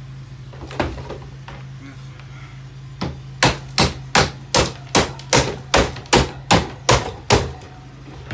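A table fan being struck hard again and again: one knock, then a fast run of about a dozen heavy blows, roughly two and a half a second, over a steady low hum.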